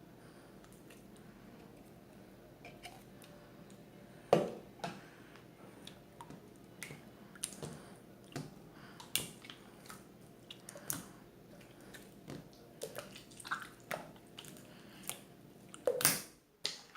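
Slime squeezed and pressed by hand, making irregular sticky clicks and small popping squishes. Quiet for the first few seconds, the pops start about four seconds in and come more often later, with one of the loudest near the end.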